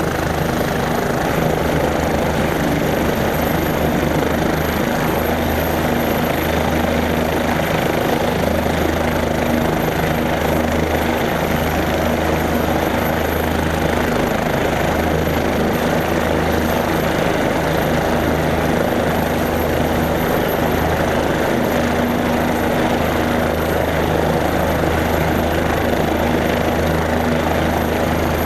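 Helicopter running, a loud steady drone with a low hum that does not change.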